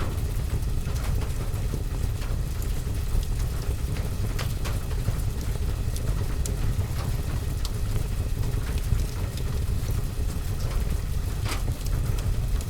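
Steady rain with a deep, constant low rumble underneath, and a log fire crackling with scattered sharp pops, a couple of them louder.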